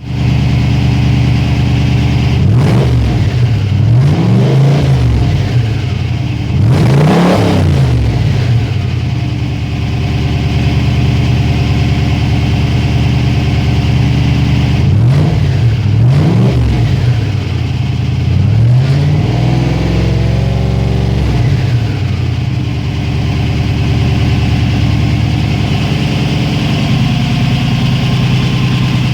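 A 4.6-litre car engine idling steadily and being blipped: a few short revs a few seconds in, a bigger rev about seven seconds in, then more quick blips and a longer rev around two-thirds of the way through, each time dropping back to idle.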